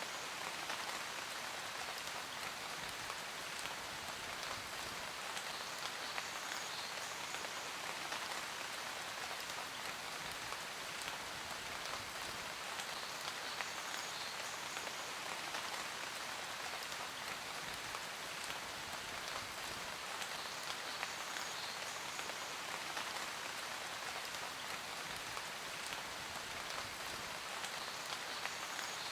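Steady rain falling as a dense, even patter.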